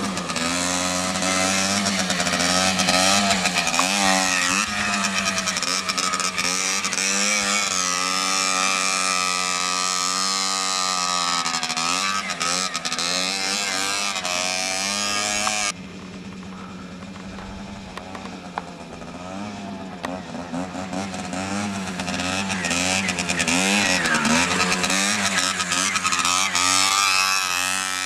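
GasGas TXT Boy youth trials motorcycle's engine being ridden, its pitch rising and falling again and again as the throttle is opened and eased. About halfway the sound drops suddenly quieter and duller, then builds back up near the end.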